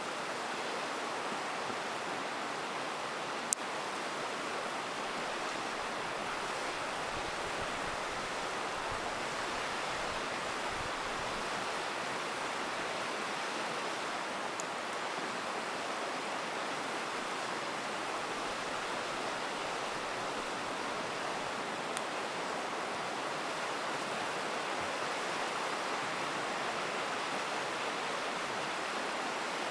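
Steady rush of a river, with a few sharp pops from a crackling campfire.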